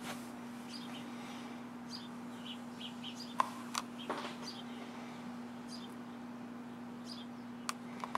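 House sparrows chirping: short, high chirps scattered throughout, with a few sharp clicks in between and a steady low hum underneath.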